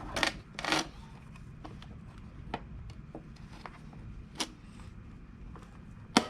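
Hand work on a minivan sliding-door roller assembly as a retaining pin and its lock clip are fitted: two short metal scrapes in the first second, then scattered sharp metal clicks, with a sharper click just before the end.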